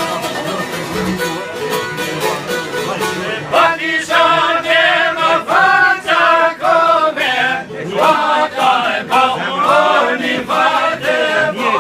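Albanian folk song: plucked string instruments play alone, then singing comes in about three and a half seconds in, over the strings.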